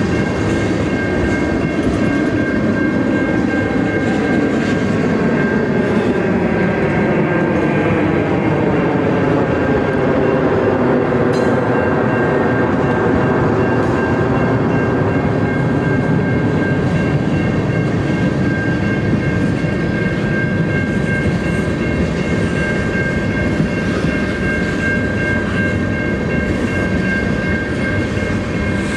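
Freight train of tank cars rolling past at a level crossing: a steady rumble and rattle of wheels on the rails, with a steady high-pitched ringing from the crossing's warning bell.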